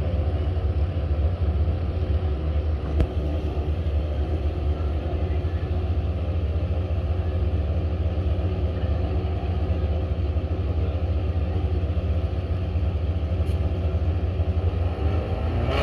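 Pro Street drag-racing motorcycle engines running steadily at idle, with no revving.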